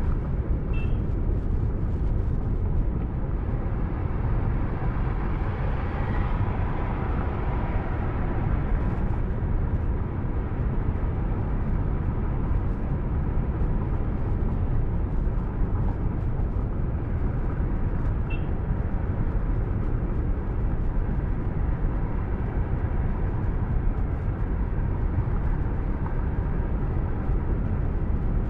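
Steady low rumble of a car driving on the highway: engine and tyre noise picked up by a dashcam inside the car. Two brief high chirps come through, one near the start and one about two-thirds of the way in.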